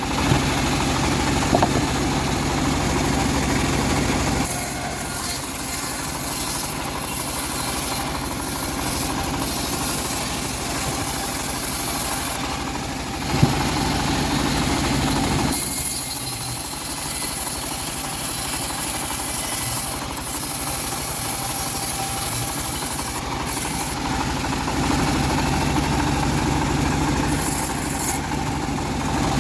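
Homemade bandsaw sawmill running continuously while sawing old teak. Its sound shifts in stretches of several seconds, heavier at times and lighter at others, as the cut goes on.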